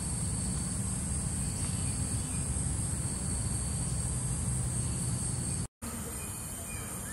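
Steady high-pitched insect chorus, with a second, lower band of drone, over a low constant rumble of forest ambience. The sound drops out completely for a split second about three quarters of the way through, then carries on the same.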